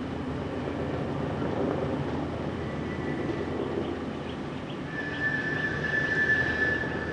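Military helicopter running: a steady rumble of engine and rotor, with a high, steady whine coming in about five seconds in.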